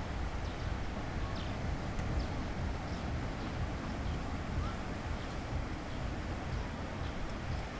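Seaside beach ambience: a steady low rumble of wind on the microphone over the wash of the surf, with faint distant voices of beachgoers.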